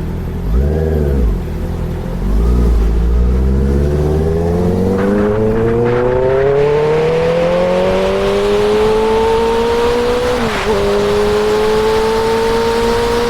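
Honda CB650R's inline-four engine, revved briefly twice, then pulling in one long, slow rise in pitch as the bike accelerates, with a short dip about ten and a half seconds in. A rushing noise grows louder with speed.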